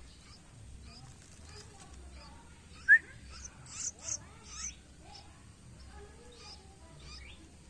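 Nine-day-old yellow-vented bulbul (trucuk) chicks chirping in short, scattered calls, with one loud brief chirp about three seconds in followed by a few high peeps.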